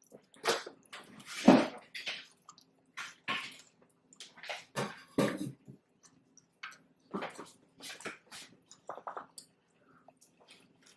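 Close-up wet chewing and mouth sounds of someone eating cheeseburger egg rolls with sriracha mayo, a string of short, irregular smacks and squishes with brief pauses.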